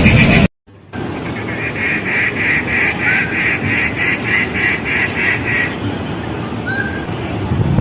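A rufous treepie calling: a loud harsh note cut off suddenly half a second in, then a run of about a dozen short, nasal notes at roughly three a second, with a few faint chirps from smaller birds near the end.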